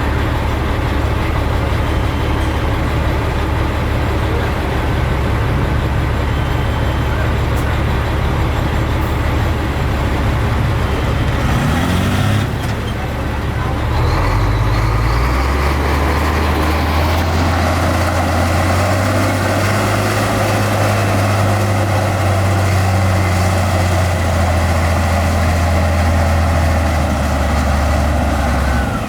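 Heavy diesel earthmoving machinery running: a steady low engine drone with a brief rising note about twelve seconds in, after which a different, steady engine note takes over.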